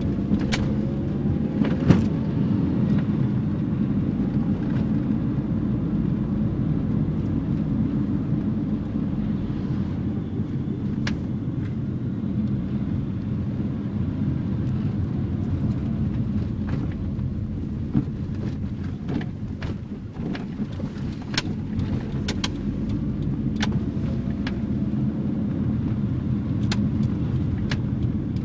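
The carburetted 1.5-litre E15S four-cylinder engine of a 1984 Nissan N12 running steadily, with scattered sharp clicks and rattles throughout.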